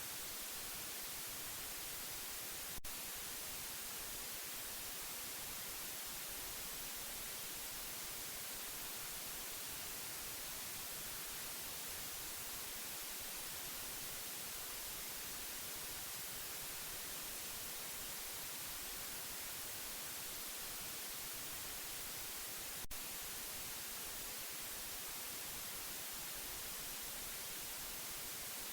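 Steady white noise: a constant, even hiss strongest in the treble. Two brief clicks come about 20 seconds apart.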